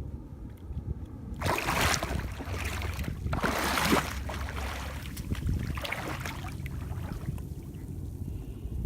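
Water splashing and sloshing in shallow tidal seawater, in three swells with the loudest about four seconds in, over a steady low rumble of wind on the microphone.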